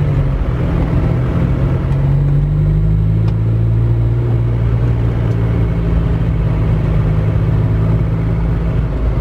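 Isuzu Panther's engine running while the car drives along, heard from inside the cabin: a steady low drone over road noise.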